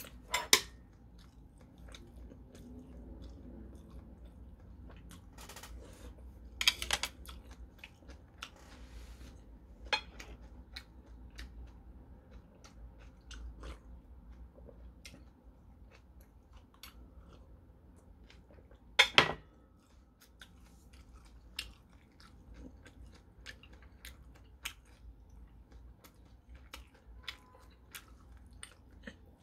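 Close-up chewing of crunchy battered fried shrimp, with many small scattered mouth clicks and crunches. Three louder sharp clicks or knocks stand out: near the start, about a quarter of the way in, and about two-thirds through.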